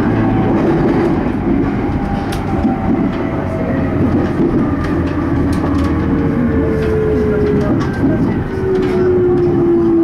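E231-series electric commuter train running on the track, heard from inside the passenger car: a steady rumble of wheels on rail with a few sharp ticks, and a motor whine that falls slowly in pitch.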